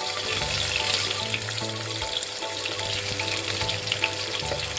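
Chopped garlic, ginger, curry leaves and cinnamon sizzling and crackling in hot coconut oil as they turn golden, with quiet background music underneath.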